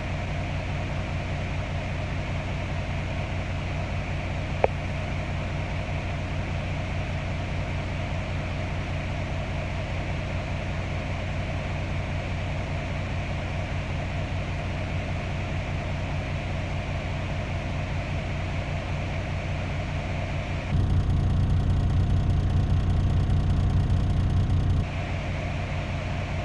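Vehicle engine idling steadily. It gets louder for about four seconds near the end, and there is a single click about five seconds in.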